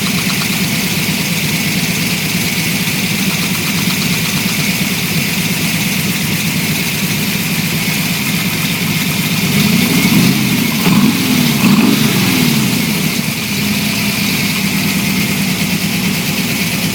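Vehicle engine idling with a rapid knocking noise. About ten seconds in it is blipped up and down a few times, then it settles back to idle.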